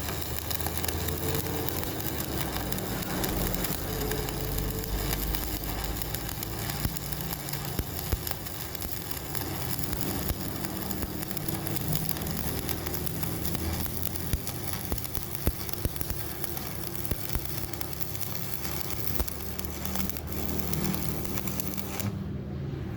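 Electric arc welding on a cracked steel truck wheel rim: a steady crackling hiss with small sharp pops, over a low hum. The crackle cuts off suddenly near the end as the arc is broken.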